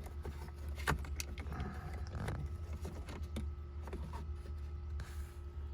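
Scattered small clicks and plastic knocks of a wiring harness plug being handled and fitted to the heater control switch, over a steady low hum.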